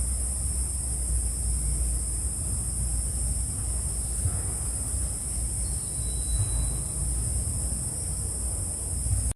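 Night insects such as crickets droning steadily in two high, unbroken tones, over a constant low rumble.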